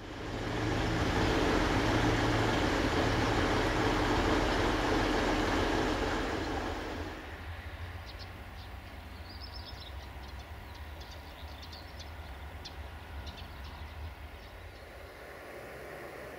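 Railway train noise: a loud rushing rumble for the first seven seconds or so, then it eases to a quieter steady low rumble with a few short high chirps over it.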